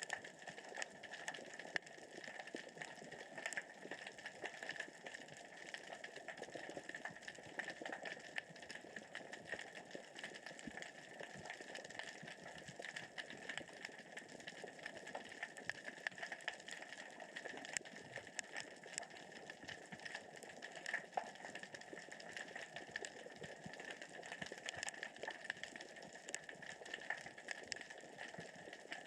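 Underwater, a dense, steady crackle of countless tiny clicks and ticks: small rocks rolling across the sea floor as the current and tide move them.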